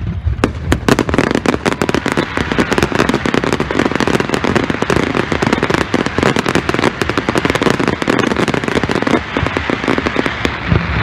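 Aerial fireworks display: a dense, rapid crackle of many small pops from white glittering crackle shells bursting together, with a few sharper bangs about a second in. The crackle thins out near the end.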